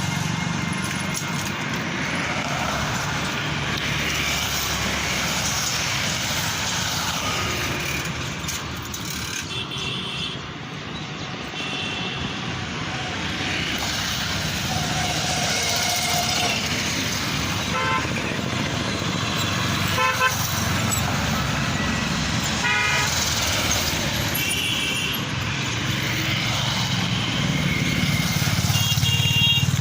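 Road traffic running steadily, with vehicle horns honking now and then.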